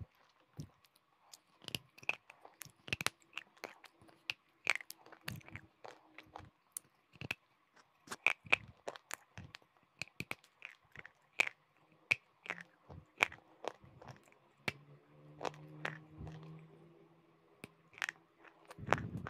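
Close-miked crunching of brittle chalky pieces being bitten and chewed: many sharp, crisp crunches, several a second, in irregular clusters.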